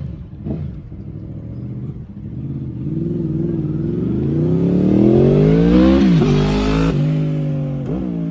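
Motorcycle engine given short throttle blips, then pulling away and accelerating with its pitch rising steadily. The pitch drops briefly at an upshift about six seconds in and again near the end. It has a distinctive engine note that the onlookers call a unique sound.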